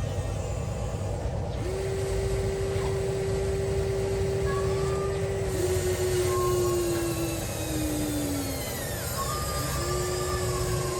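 Motors of a 1:14 scale Huina RC excavator whining as it works. A steady whine starts about two seconds in, a second one slides down in pitch as it slows, and the whine starts again near the end, all over a low rumble.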